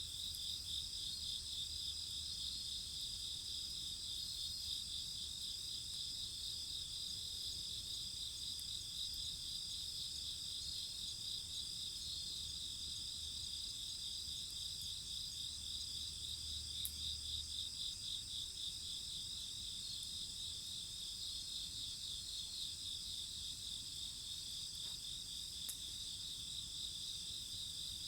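Steady chorus of night insects trilling, several species at once, with a fast pulsing trill the most prominent. A couple of faint crackles from the bonfire.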